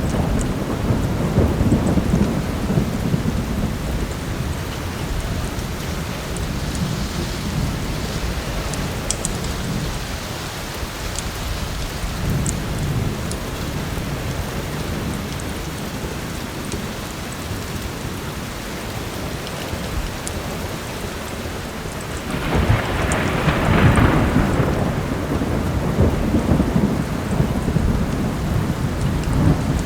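Steady heavy rain with low rolling thunder. A louder thunder peal breaks about three-quarters of the way through and rumbles on.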